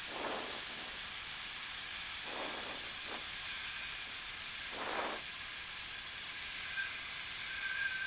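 Steady hissing cockpit noise of a Cessna 172 on short final with the engine throttled back, heard through the headset intercom, with a few brief muffled swells. A faint high whistle comes and goes near the end.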